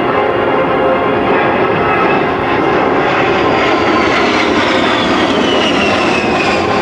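A-10 Thunderbolt II jet passing low, its twin TF34 turbofans making a loud, steady roar with a high whine that falls in pitch as it goes by.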